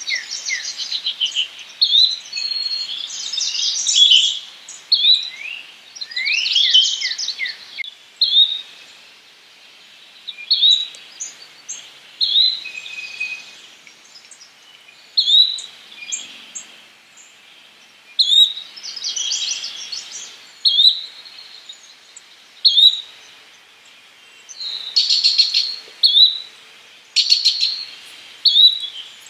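Yellow-bellied flycatcher calling: short, high, rising whistled notes repeated about once a second, with several bouts of rapid chattering notes among them.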